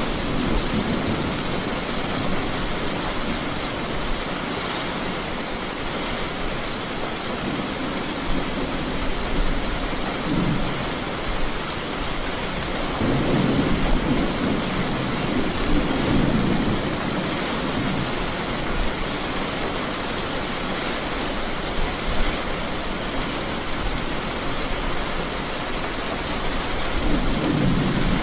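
Steady heavy rain hissing, with low thunder rumbling in through it in several slow swells, the strongest in the middle.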